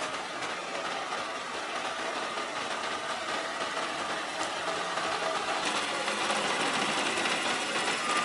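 A machine running steadily, a dense mechanical whirr with a few faint steady tones, growing slightly louder toward the end.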